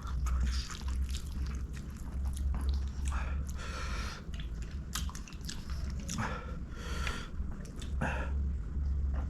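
Close-miked chewing and wet mouth sounds of a person eating string hoppers with curry, with irregular small clicks and smacks, over a steady low hum.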